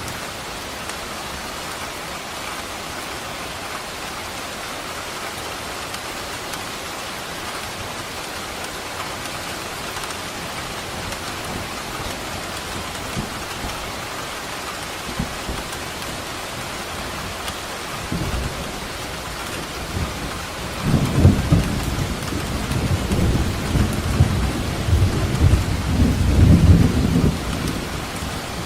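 Steady rain falling, with a long roll of thunder that starts about two-thirds of the way through and is loudest near the end.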